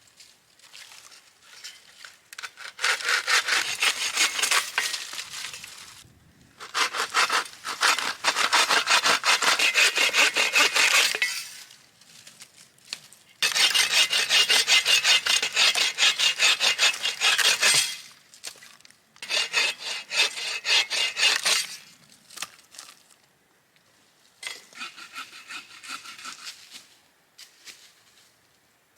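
Hand saw cutting through firewood in rapid back-and-forth strokes, in five bouts of a few seconds each with short pauses between.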